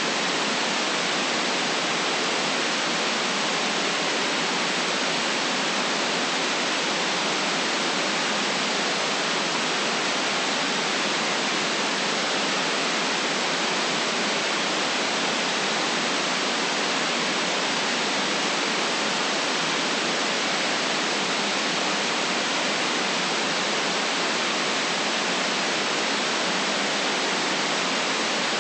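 Steady, unchanging white noise: an even hiss with no events or variation.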